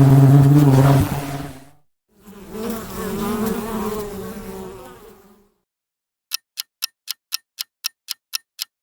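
A bee buzzing in two long passes, the second a little higher in pitch. It is followed by a countdown timer ticking about four times a second.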